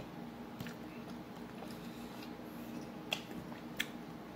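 Quiet mouth sounds of someone chewing a taco: three short sharp smacks or clicks, one under a second in and two close together near the end, over a faint steady room background.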